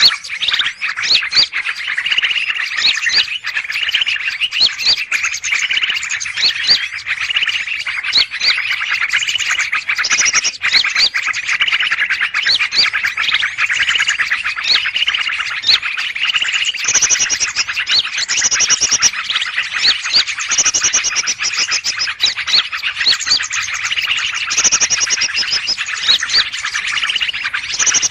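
Bird-luring recording of many small birds calling at once in a noisy, agitated commotion: dense, unbroken chirping with quick repeated higher notes over it, used to draw in greater green leafbirds.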